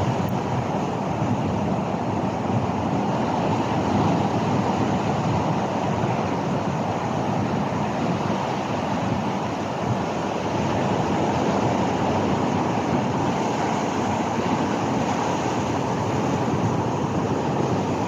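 Ocean surf with wind noise on the microphone: a steady rushing noise that carries on without a break.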